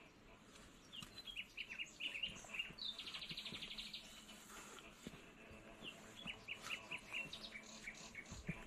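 Small birds calling: runs of short, high chirps, with a fast trill lasting about a second about three seconds in, then another run of chirps later.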